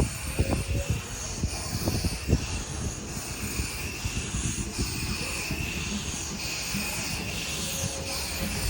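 Narrow-gauge steam train running, heard from aboard a carriage: a steady rumble of wheels on rail with a few sharp knocks in the first couple of seconds.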